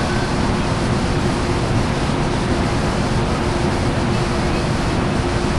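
Amtrak Coast Starlight's diesel locomotive idling at the platform: a steady low rumble with a constant hum and no change in pace.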